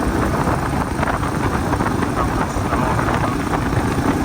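Yamaha TW200's single-cylinder four-stroke engine running steadily as the motorcycle is ridden, with wind noise on the microphone.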